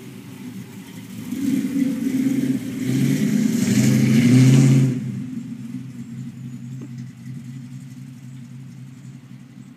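1969 Chevy Camaro engine revving up as the car accelerates away across a grass lawn. The engine note rises twice and is loudest about four seconds in, then drops off suddenly and fades into the distance as the car drives off.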